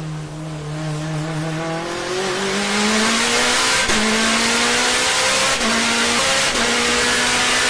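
Shelby GT500's V8 accelerating hard. The engine note climbs steadily and grows loud over the first two to three seconds, then holds high with a few brief dips.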